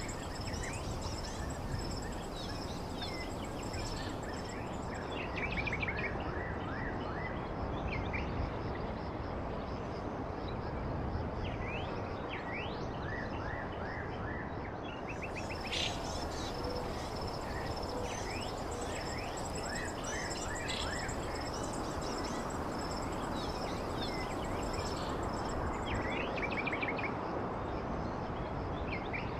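Wild birds chirping: short trills and quick rising and falling notes that come in clusters, over a steady high-pitched insect drone and a constant rushing background noise.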